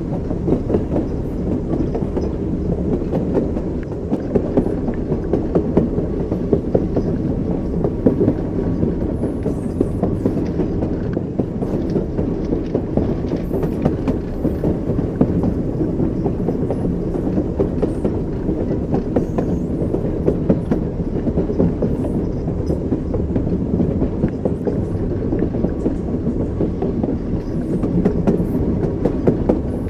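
Train wheels running over rail joints: a steady low rumble from the moving carriage with repeated clickety-clack knocks as the wheels pass the joints.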